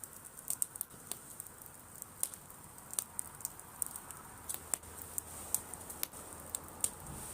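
Driftwood bonfire crackling, with irregular sharp pops and snaps over a faint steady hiss.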